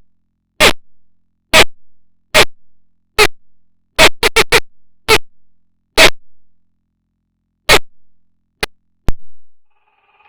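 About a dozen short, sharp noise bursts at uneven intervals, with a quick cluster of four about four seconds in, and dead silence between them.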